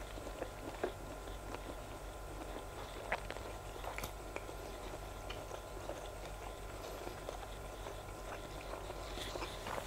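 Close-miked chewing of grilled sausage with the mouth closed: soft, scattered wet mouth clicks over a steady faint background hum.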